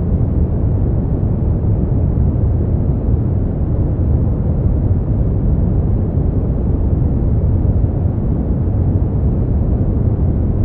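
Steady synthetic sleep-aid noise, sold as white noise but deep, with most of its weight low down and almost no high hiss; an even, unchanging rush.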